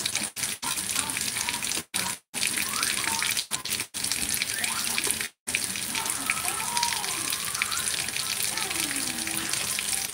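Home fries and scrambled eggs sizzling in frying pans on a gas stove: a steady crackling hiss. The sound cuts out completely for a moment several times.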